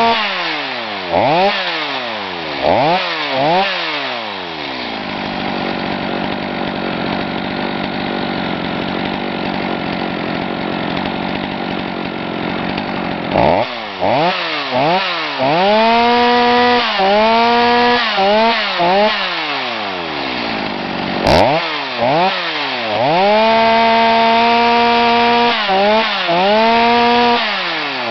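Stihl MS250 chainsaw's two-stroke engine revved in quick blips to a high, steady scream and dropped back, idling for several seconds in between, then revved and held high again and again. There is one sharp click about two-thirds of the way through.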